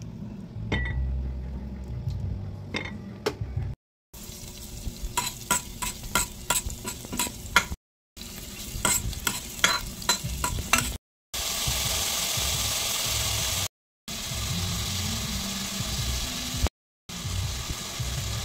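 Metal utensils clicking and scraping against a stainless steel pot in quick, uneven strokes as chopped onion and garlic are stirred, then about two-thirds of the way through a steady sizzle of the onion and garlic frying in the pot.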